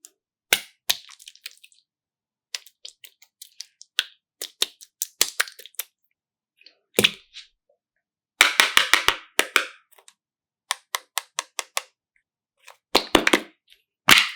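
A series of sharp cracks and clicks in bursts, some single and some in quick runs, with a dense crackling cluster about eight and a half seconds in and another near the end, separated by silences.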